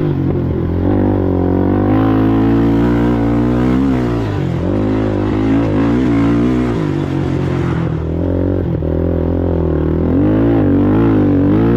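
Racing ATV engine under varying throttle, its pitch rising and falling as it revs up and backs off, with dips about a third and two-thirds of the way through before it climbs again near the end.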